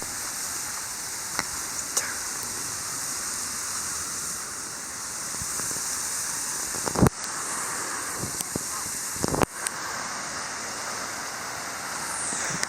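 Heavy rain falling in a steady hiss, with a few sharp taps of drops striking close by, the loudest about seven and nine seconds in.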